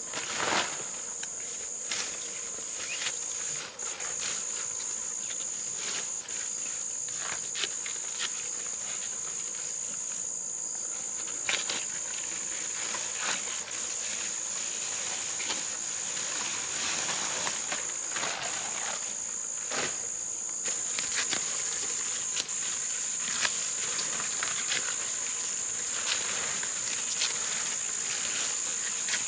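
A steady, high insect drone from crickets or similar shrilling insects, with scattered clicks and rustles over it throughout.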